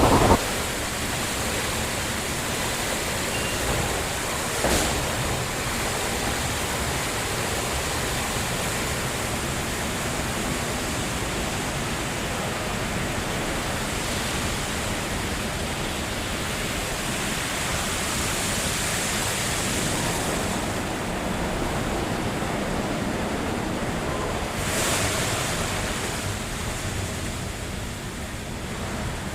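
Automatic car wash running with a steady rushing noise, swelling briefly twice, about five seconds in and again near the end.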